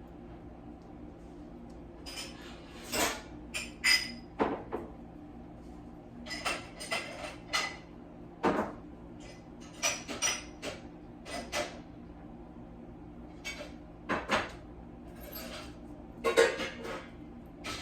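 Newborn dachshund puppies giving short high squeaks at irregular intervals, over a steady low hum.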